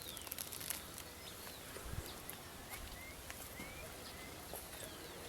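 Birds calling in short whistled notes that slide down and up, one after another, over a faint outdoor hiss. A few sharp ticks come in the first second.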